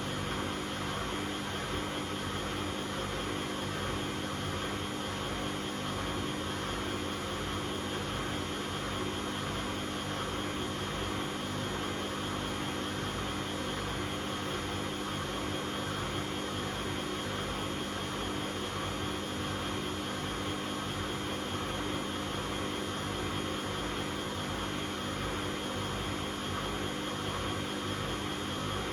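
Bosch Classixx 6 washing machine spinning at a steady speed late in the cycle: an even rushing drum noise under a constant motor whine.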